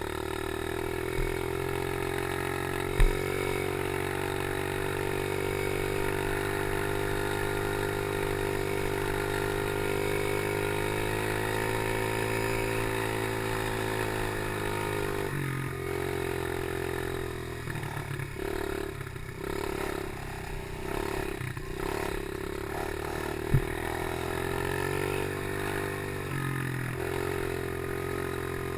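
Chinese PY90 geared motorcycle's small engine running under way, its pitch slowly falling and rising, then going choppy with the throttle on and off for several seconds past the middle. Two sharp thumps stand out, a few seconds in and near the end.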